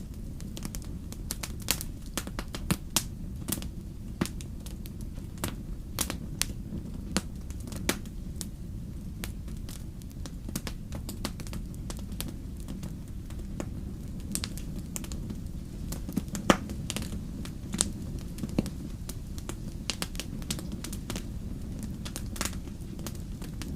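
Burning firewood crackling, with irregular sharp pops over a steady low rumble; the loudest pop comes about two-thirds of the way through.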